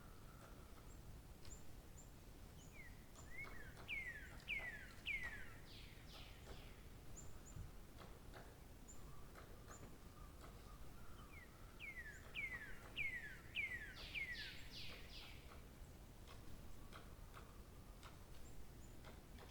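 A songbird singing twice, each phrase a rapid series of about eight slurred notes that sweep downward in pitch, with faint high chips from another bird in between, over soft background hiss.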